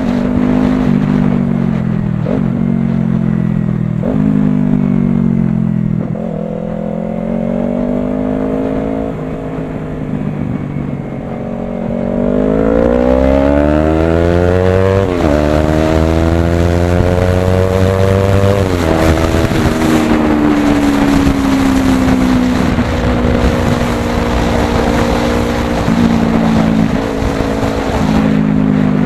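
Yamaha R3 parallel-twin engine through a full Akrapovic exhaust, running loudly. Its pitch rises and drops in several short steps, makes one long climb near the middle, and then falls away.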